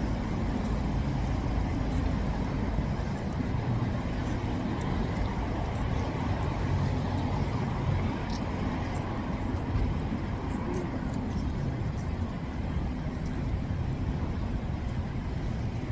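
Steady low rumble of vehicles in motion, like road traffic or a ride on a bus, with no single event standing out.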